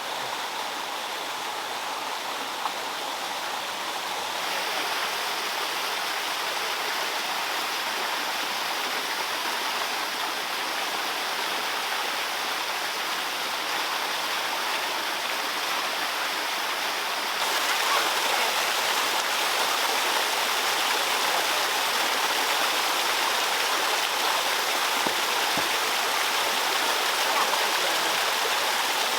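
Water running and splashing steadily, as in a small stream or waterfall, getting louder in two steps, about four seconds in and again past the middle.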